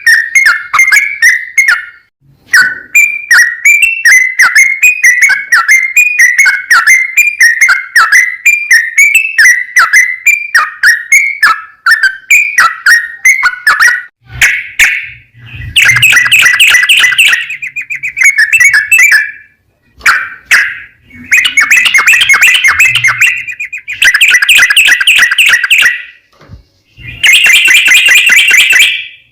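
Yellow-vented bulbul (trucukan) singing loudly. The song is first a run of short chirping notes, about two to three a second, then, about halfway through, long fast rolling trills of a couple of seconds each with short pauses between: the long rolling song, 'ropel panjang', used to lure other trucukan into singing.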